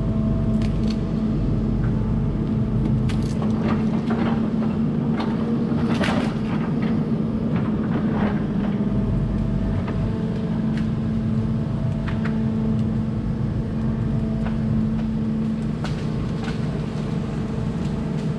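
Volvo 140 excavator's diesel engine running steadily under load, with scattered cracks and knocks as it works through trees and brush.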